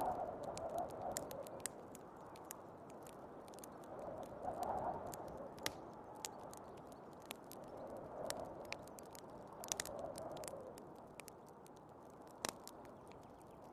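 Wood fire crackling with scattered sharp pops, one louder pop near the end, over wind rushing steadily and swelling in gusts every few seconds.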